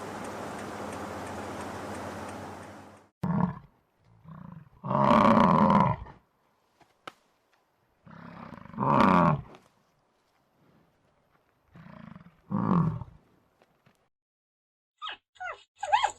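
An animal giving a series of separate, pitched calls with silences between them: two short ones, then three louder ones about a second long, each a few seconds apart.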